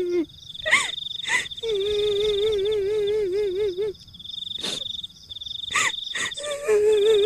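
Horror soundscape: a long wavering wail like a woman crying, the kuntilanak ghost cry, sung on one note with a growing wobble, over a steady high cricket-like trill. Dogs bark sharply several times, twice in quick succession about a second in and again around five and six seconds in.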